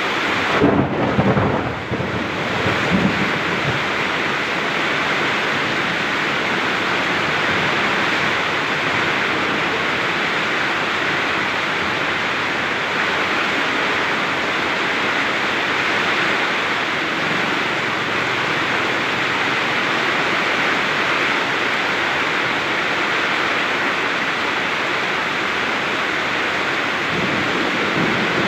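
Heavy rain pouring steadily, with a rumble of thunder rolling through in the first few seconds.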